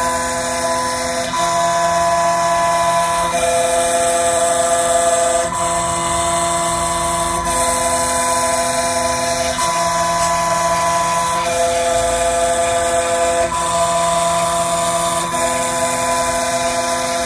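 Đông Đô 2019 CNC machine milling the top off a phone IC on its first 0.7 mm rough cut. Its motors whine in steady tones that shift pitch about every two seconds as the head sweeps back and forth, over a constant cutting hiss, running smoothly.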